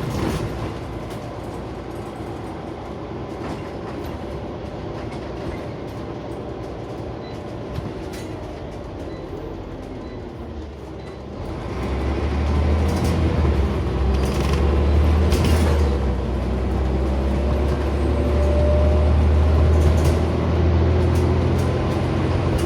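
Interior of a Scania OmniCity single-deck bus on the move: fairly quiet running with scattered rattles and clicks, then about halfway through the engine comes in with a loud low drone as the bus accelerates, and a rising whine near the end.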